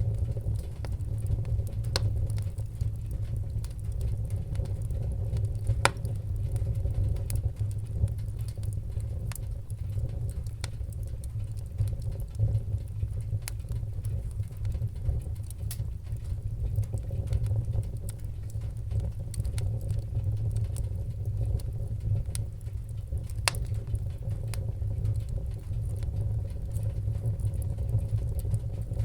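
Fireplace fire crackling: a steady low rumble of flames with scattered sharp snaps and pops, a few of them louder.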